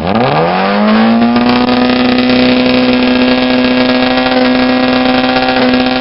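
Vehicle engine revved hard through a loud exhaust: it comes in suddenly, climbs in pitch over about a second, then is held steady at high revs.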